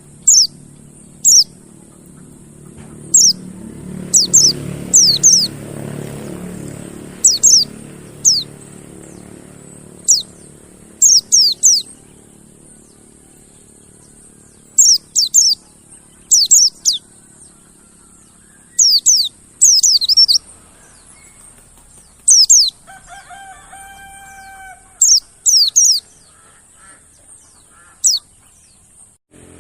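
Mountain white-eye (pleci monty) calls: short, sharp, high chirps that fall steeply in pitch, singly or in quick pairs and threes, repeated throughout over a steady high hiss. A low rumble swells a few seconds in, and a brief lower-pitched call sounds about two-thirds of the way through.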